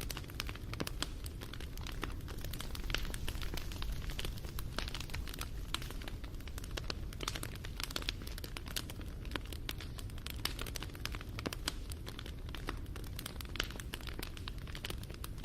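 Wood fire crackling and popping: a dense, irregular run of sharp snaps over a steady low rumble of the burning.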